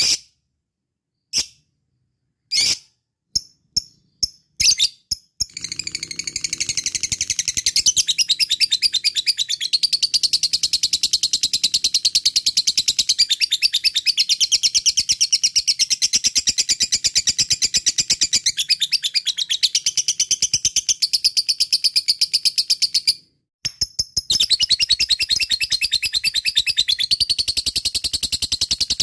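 Lovebird's 'ngekek' call: a few separate sharp chirps, then a long run of very rapid, high chattering chirps. The run breaks off briefly about 23 seconds in, then starts again.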